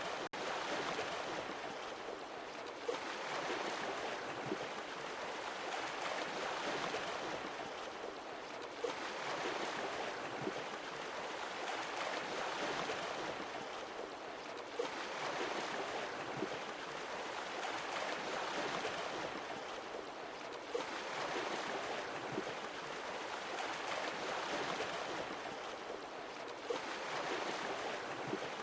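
Sea waves washing in and ebbing away, swelling about every six seconds, with a faint click as each swell arrives.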